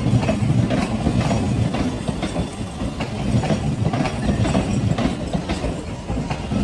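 A train running past on the track: a steady low rumble with the wheels clicking over rail joints again and again.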